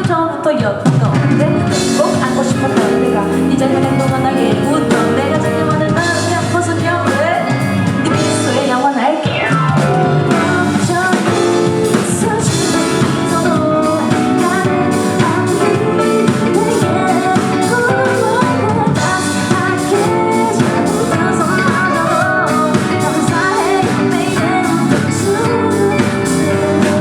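Live band playing a pop-rock song at concert volume, with drums, guitar and singing throughout.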